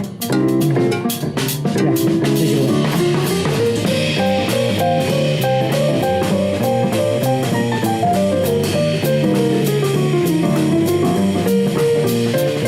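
Live band playing an instrumental break without vocals: guitar over bass and drum kit, with a melodic line that slides down in pitch and back up partway through.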